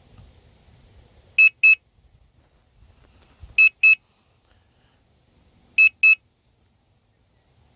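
Hubsan Zino Mini Pro drone remote controller sounding loud, high double beeps, three pairs about two seconds apart. The beeps signal that the automatic return-to-home is under way.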